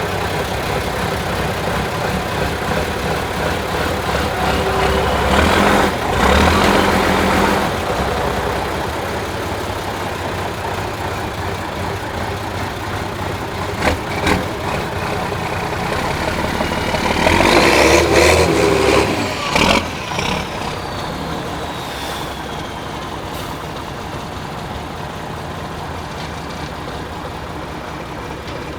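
Praga V3S 6x6 truck's diesel engine working through an off-road trial course. It runs steadily and revs up hard twice, about six and eighteen seconds in. A few sharp knocks come from the truck, and a falling whine follows the second rev.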